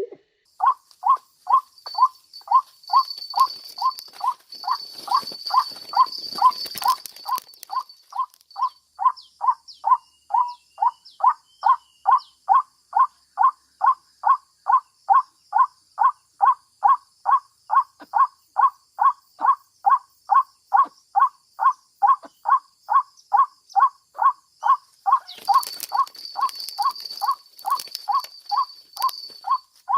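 White-breasted waterhen (ruak-ruak) call: one short note repeated very evenly, about twice a second, without a break. A steady high thin tone runs behind it and grows louder, with some rustling, between about 3 and 8 seconds in and again from about 25 seconds.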